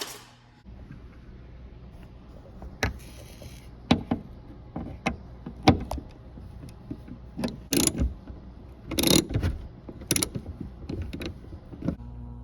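Sunroof mechanism of a Hyundai Genesis Coupe being worked on during an adjustment of the misaligned glass: a steady low hum starts about half a second in, with a string of sharp clicks and knocks.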